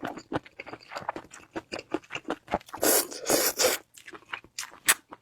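Close-miked eating: chewing with many short crunches and wet mouth clicks, with a louder, noisier stretch about three seconds in.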